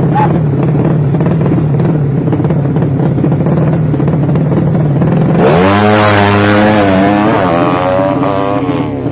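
200cc drag-racing motorcycle engines running with a steady note, then about five and a half seconds in one engine revs hard. Its pitch climbs, wavers and holds high for some three seconds before dropping away near the end.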